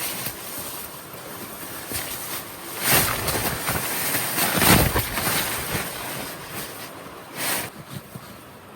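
Wind gusting in a snowstorm, a rushing noise that swells strongly in the middle and again briefly near the end.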